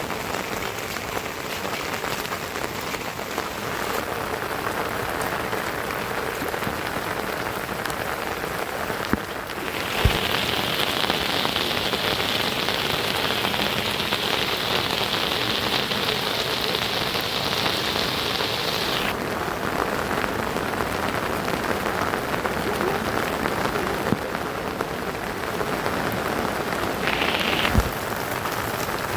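Steady rain falling, a continuous even hiss. About a third of the way in it turns abruptly brighter and hissier for roughly nine seconds, then drops back. There are a few brief knocks along the way.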